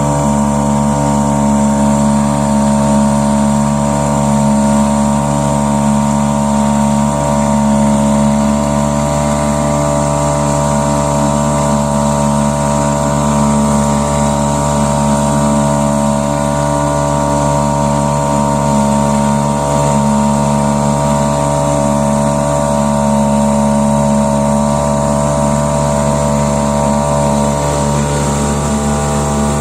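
Tohatsu 2.5 hp outboard motor running steadily under way, pushing a heavy rowing boat.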